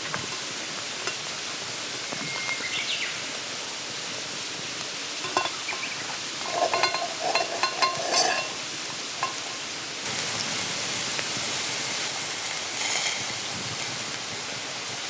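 Mountain stream running steadily, with a cluster of short clinks and clatter around the middle and the water sound swelling louder for a few seconds about two-thirds of the way in.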